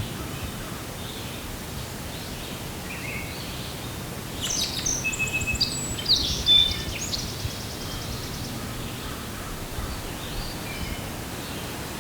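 Wild songbirds singing outdoors, with a busy run of quick, varied chirps and trills starting about four seconds in and lasting a few seconds, then a few faint scattered calls, over a steady background hiss.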